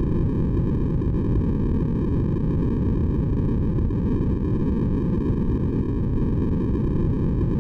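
Steady, unchanging white noise for baby sleep, weighted toward the low end so it sounds like a deep rushing hum rather than a bright hiss.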